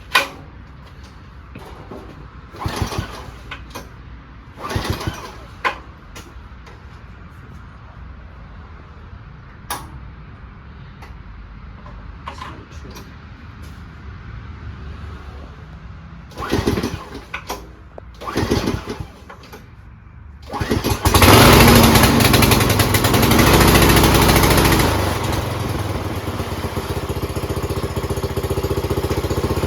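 Small 8-horsepower lawn-tractor engine being cranked over in several short bursts with the choke on, then catching a little over twenty seconds in and running loudly at full throttle, settling to a somewhat lower, steady running note a few seconds later.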